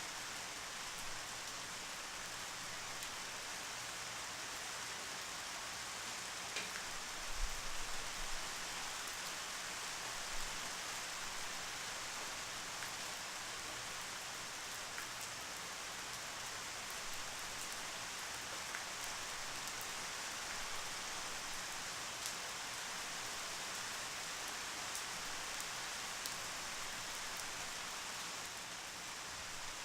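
Steady rain falling, an even hiss with scattered sharp drop impacts. A brief low thump about seven seconds in.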